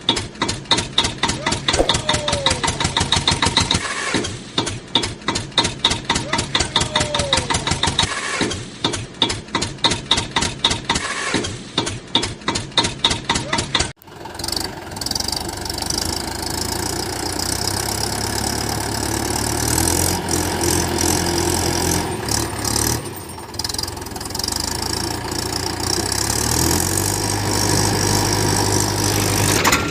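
Tractor engine chugging in a steady rhythm of about three beats a second. About halfway through it cuts off abruptly and gives way to a steadier engine running with a low hum.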